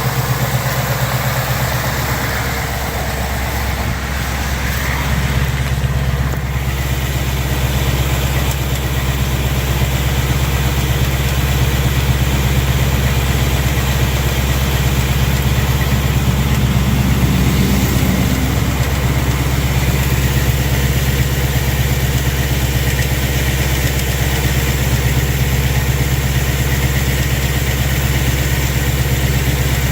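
2019 Ford Mustang GT's 5.0-litre Coyote V8 idling steadily, with at most a very faint tick.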